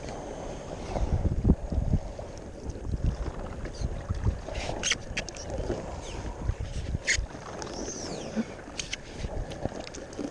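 Paddling an inflatable kayak: paddle strokes splashing in the water with scattered sharp clicks and knocks, while gusts of wind rumble on the microphone.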